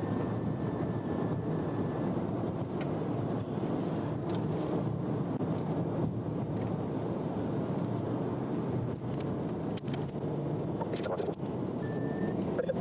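Steady rumble of a vehicle driving at speed, road and wind noise with no change in pitch, broken by a few short clicks near the end.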